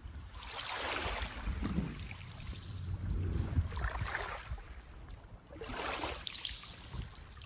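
Small waves washing up a sandy beach, three surges of wash that swell and fade, over a steady low rumble of surf.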